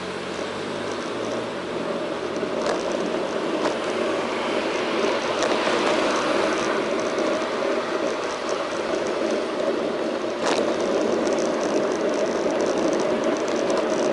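Steady riding noise of a bicycle on the road, picked up by a bike-mounted action camera, slowly growing louder. A few sharp clicks come around three seconds in and again about ten seconds in, and fine rapid ticking sets in near the end.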